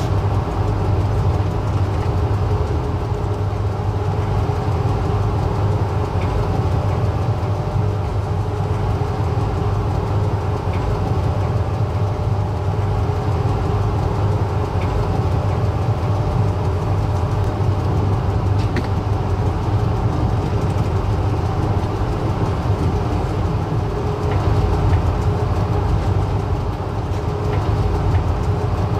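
Passenger train running with a steady low rumble and drone, with a few faint clicks scattered through it.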